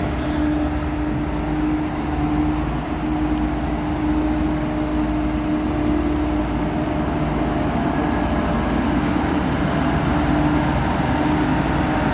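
Heavy diesel engine of a vibratory roller or the truck it is loading onto, running steadily at held speed with a constant hum. A short knock sounds right at the start.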